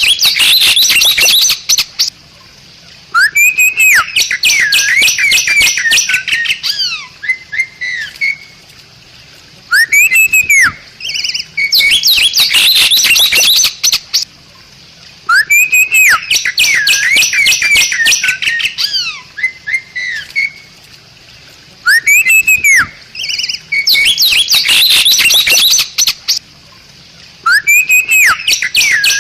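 Bali myna singing: a phrase that repeats about every six seconds, each opening with an arched whistle and running into a burst of rapid, harsh chattering notes, with brief pauses between.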